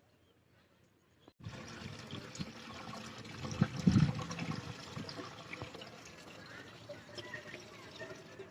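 Water pouring and splashing. It starts abruptly about a second and a half in after near silence, and is loudest about four seconds in.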